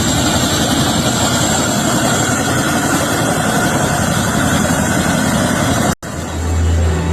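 Chinook tandem-rotor helicopter's engines and rotors running, a loud steady dense noise. It cuts off suddenly about six seconds in, and a low steady hum follows.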